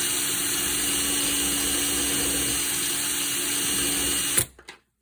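Power drill running at a steady speed, spinning a screw in its chuck like a lathe while a diamond file cuts a shoulder on the screw. The run stops abruptly near the end.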